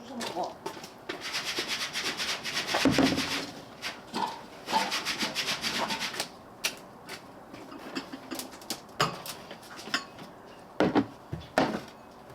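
Two spells of fast, rapidly repeated scraping or rubbing strokes, then a few scattered sharp knocks.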